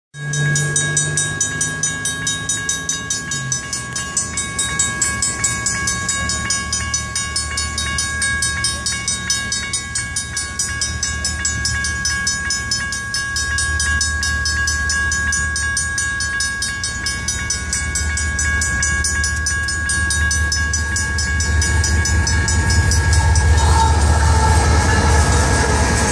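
Railroad crossing bells ringing together, an electronic crossing bell and a Griswold mechanical bell striking rapidly over steady ringing tones. A train horn sounds at the start and fades, and a passing train's rumble builds and gets louder toward the end.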